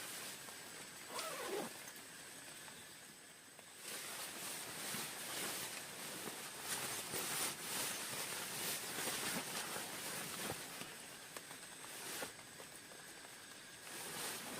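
Heavy rain falling and pattering in a dense, irregular hiss of drops, growing heavier about four seconds in.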